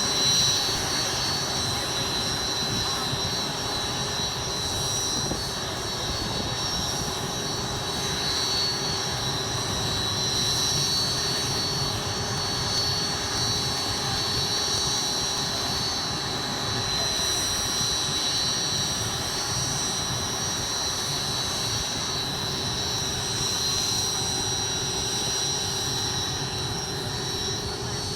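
Aircraft engines running steadily: a high-pitched whine over a low rumble.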